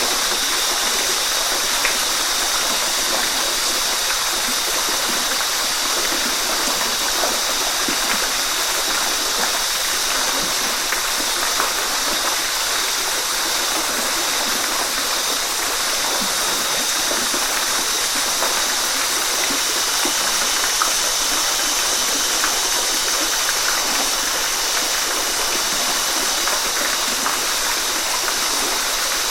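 Waterfall: steady rushing and splashing water, an even hiss with little low rumble.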